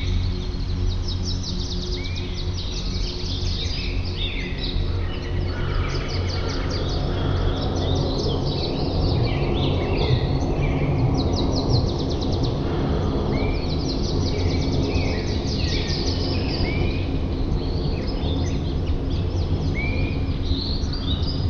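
A chorus of many songbirds chirping, whistling and trilling, calls overlapping without a break, over a steady low rumble.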